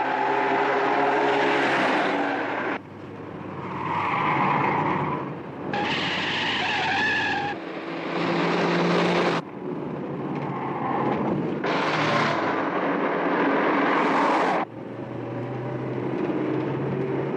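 Car engines running hard with tyres squealing, as in a high-speed car chase. The sound changes abruptly every two to three seconds.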